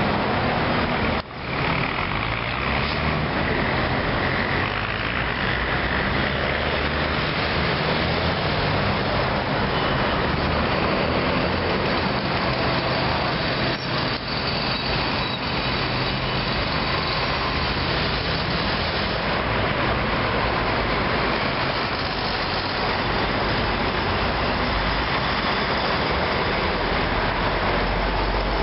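City street traffic: a steady, loud wash of vehicle engines and tyres, briefly dipping about a second in.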